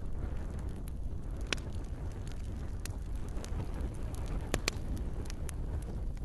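Campfire crackling: scattered sharp pops and snaps over a steady low rumble of burning wood, with a louder close pair of pops about four and a half seconds in.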